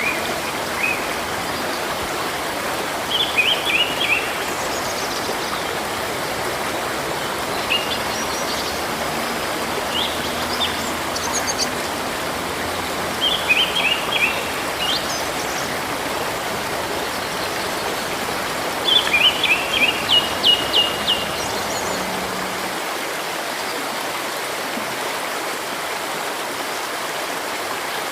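A river or stream flowing steadily, with small birds singing over it in short phrases of quick, high repeated chirps every few seconds, the longest and loudest phrase about two-thirds of the way through.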